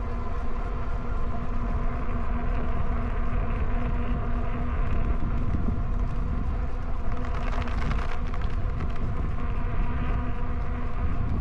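E-bike riding along a trail: a steady hub-motor whine with wind buffeting the microphone, and a stretch of brighter tyre or brush hiss in the middle.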